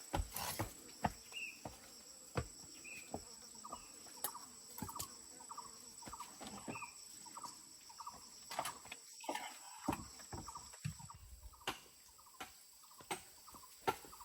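Chickens clucking repeatedly in short calls, with scattered sharp knocks and taps throughout.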